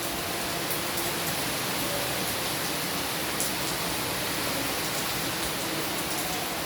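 Steady rain falling: a dense, even hiss with scattered faint ticks of single drops striking close by.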